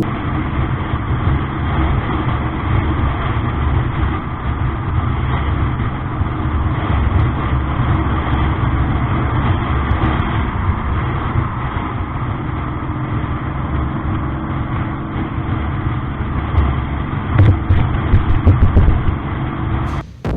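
Steady engine and road noise from a moving vehicle, a continuous low rumble, with a short run of sharp knocks near the end.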